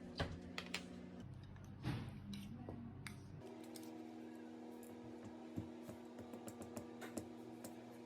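Scattered light clicks and taps over a steady hum.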